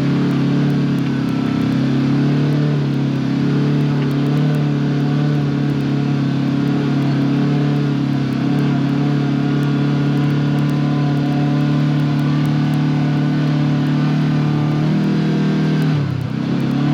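Side-by-side UTV engine running at a steady pace on the trail. Near the end the engine note briefly dips and then picks up again.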